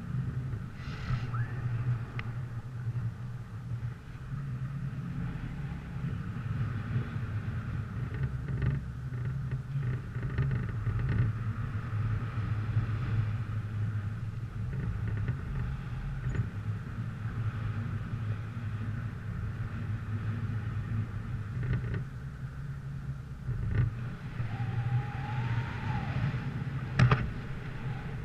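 Motor vehicle engine running steadily with a low rumble, with scattered knocks and rattles and one sharp knock near the end.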